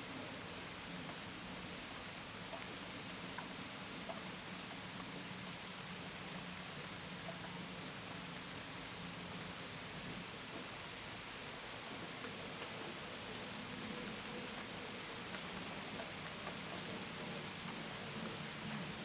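Steady rain hiss with drops pattering on a window and gutters, and crickets chirping in short repeated pulses high above it. A faint low hum sits underneath, fading out midway and returning near the end.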